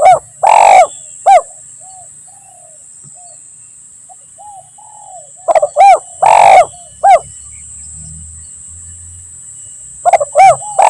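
Spotted dove (tekukur) cooing in three phrases about five seconds apart. Each phrase is a few short coos around one loud, longer coo, with softer single coos in between. A steady high hiss runs underneath.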